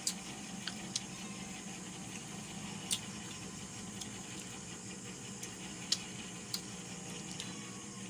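Eating sounds at a meal: scattered sharp clicks and taps, about eight over several seconds, over a steady low hum.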